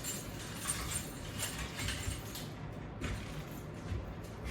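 Faint rustling and a few soft knocks and clinks from handling tubular resistance bands and their clips.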